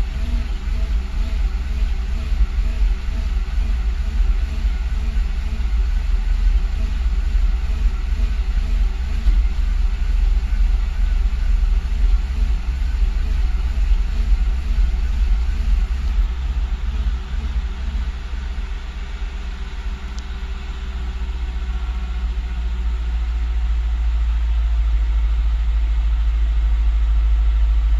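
Car engine running at a rough idle, its speed wavering up and down. From about two-thirds of the way through it grows steadily louder.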